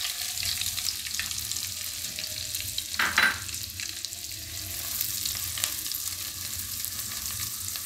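Chopped onions and green chillies sizzling in hot butter and oil in a kadai, a steady crackling hiss, stirred with a silicone spatula; one brief louder sound about three seconds in.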